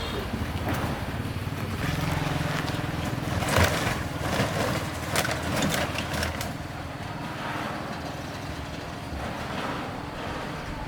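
A steady low engine hum, with a run of sharp clatters and knocks in the middle.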